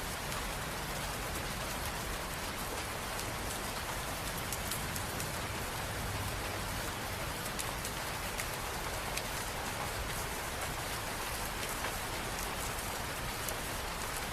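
Steady rain falling, an even hiss with many small drops ticking on surfaces.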